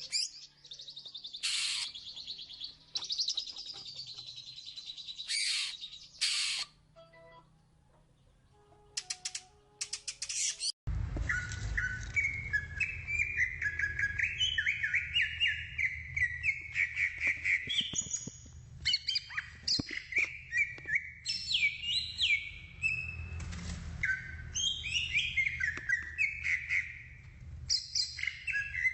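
Oriental magpie-robin (kacer) singing a varied run of clear whistled phrases and rapid twittering. About eleven seconds in, the recording cuts abruptly to another take, where the song is denser and a steady low hum runs underneath.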